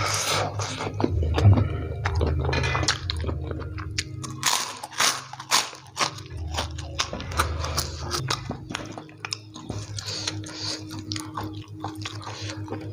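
Close-miked eating sounds of a man chewing mouthfuls of spicy instant fried noodles and bites of egg: wet chewing and smacking with many quick, sharp mouth clicks.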